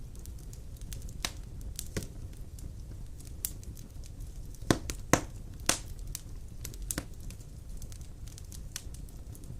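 Large logs burning in a stone fireplace: a steady low rumble of the fire with scattered sharp crackles and pops, the loudest three coming close together about five seconds in.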